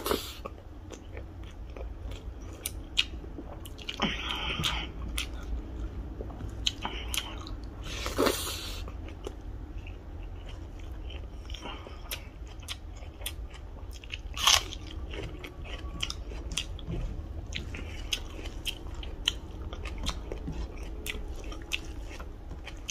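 Close-miked chewing and mouth sounds of a person eating rice and chicken curry: a steady run of small wet clicks and crunches, with a few louder bursts about 4, 8 and 14 seconds in.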